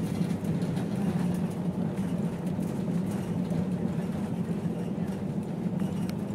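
Steady cabin drone of an Airbus A320: engine and airflow noise, a low hum with a rushing hiss above it, without break or change.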